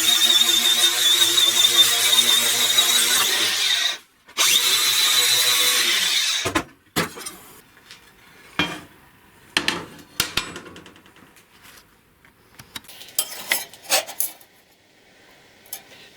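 An electric power tool running steadily with a high whine. It stops about four seconds in, runs again for about two seconds, and stops. After that come scattered clicks and knocks.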